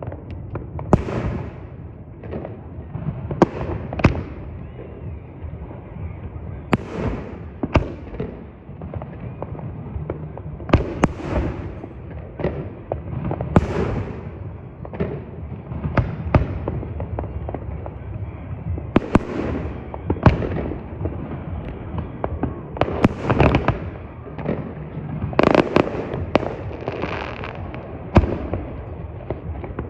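Fireworks display: repeated sharp bangs at uneven intervals, many followed by crackling, over a steady low rumble.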